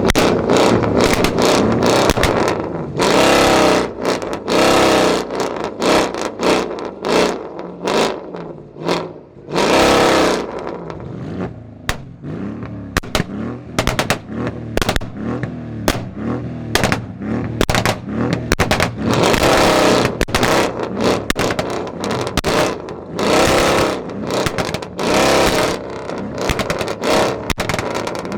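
Mercedes-Benz E500 W212's 4.7-litre twin-turbo V8, with a custom downpipe and exhaust, revved hard again and again in short surges, with sharp pops between the revs.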